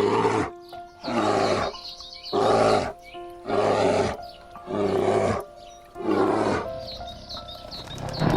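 An animal call repeated six times, about a second apart, over background music with held notes; fainter, shorter calls follow near the end.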